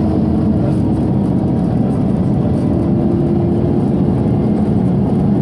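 Scania OmniCity city bus heard from inside while driving: a steady low engine drone with ventilation whir, the engine note rising slightly about halfway through.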